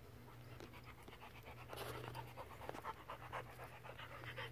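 Dog panting in quick, short breaths, starting a little under two seconds in, over a faint steady low hum.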